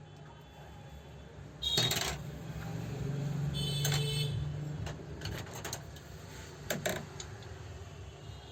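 Metal tools and sewing-machine parts clinking and knocking against each other during repair work on an overlock machine. There are two louder ringing metal clinks, about two seconds in and about four seconds in, then a few lighter clicks, over a steady low hum.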